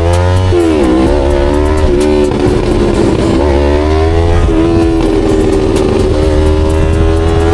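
Yamaha R3's parallel-twin engine under way: the pitch drops about half a second in, climbs steadily until about four and a half seconds, drops again and then holds steady, as through gear changes while riding.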